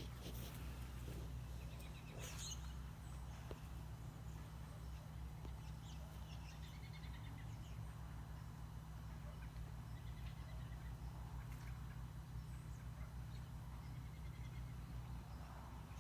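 A large flock of roosting birds calling, with faint scattered chirps and chatter over a steady low rumble.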